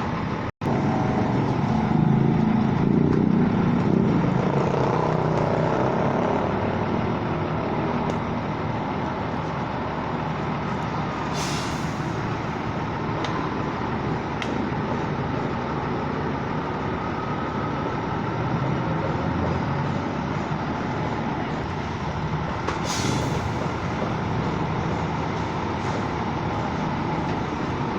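Heavy truck's engine running steadily, with two short hisses of released air, one about twelve seconds in and another about eleven seconds later.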